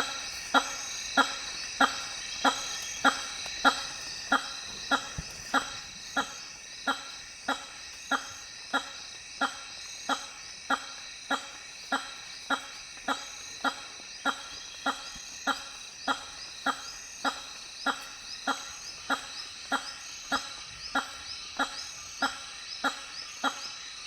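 Hammer-headed fruit bat giving its honking call over and over, short blaring notes a bit under two a second at a very even pace. This is the male's courtship call at a lek. A steady high-pitched hum of other night sounds runs beneath.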